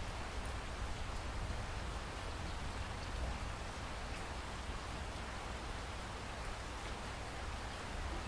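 Steady rainfall, an even hiss of rain with a few faint distinct drops and a low rumble underneath.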